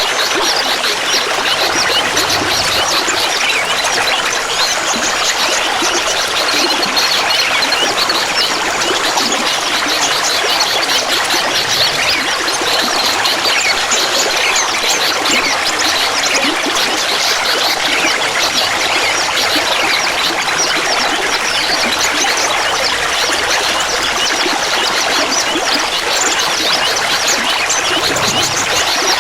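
Clear water trickling and babbling steadily, a dense patter of small splashes.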